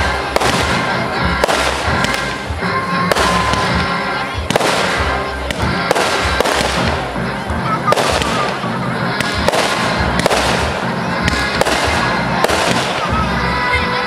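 Aerial fireworks shells bursting in rapid succession, a sharp bang every half second to a second, with music playing underneath.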